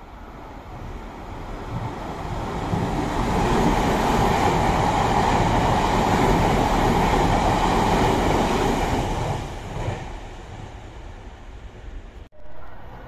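A Nankai 8300 series electric multiple-unit train runs through the station without stopping. Its rumble builds over about three seconds, holds loud for several seconds as the cars pass, then fades away. A brief dropout near the end.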